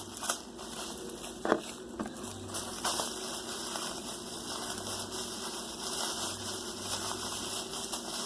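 Homemade trash-bag squishy being handled and squeezed: a few short plastic crinkles and clicks, the clearest about a second and a half, two and three seconds in, over steady hiss.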